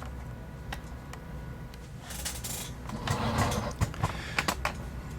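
Scattered small clicks and rustles of handling, with a couple of brief scuffing swells around the middle, over a steady low hum.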